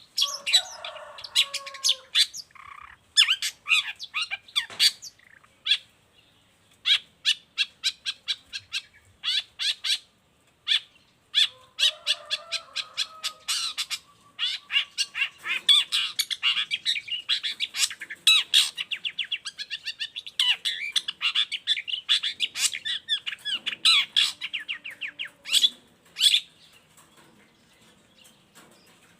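Long-tailed shrike singing hard, a fast, rapid-fire string of sharp high notes with a few harsher, lower calls mixed in. The song breaks off about 26 seconds in.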